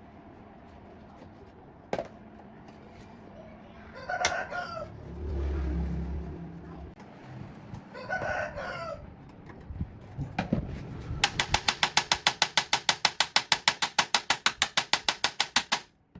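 A rooster crows twice in the background. Then come rapid, even scrubbing strokes, about six a second, lasting around five seconds and ending abruptly just before the end; these strokes are the loudest part.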